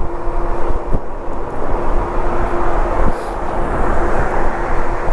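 Wind and road noise while riding a Lectric e-bike, with a steady whine from its hub motor; a car coming up from behind grows louder from about two seconds in.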